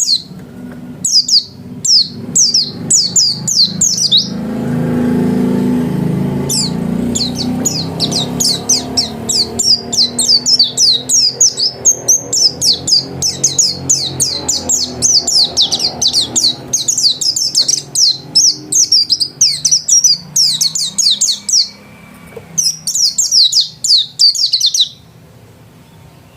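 A pet white-eye (pleci) singing in long bouts of rapid, high, down-sweeping chirps. The song breaks off briefly about four seconds in and stops shortly before the end. During the break a low rumble swells and fades.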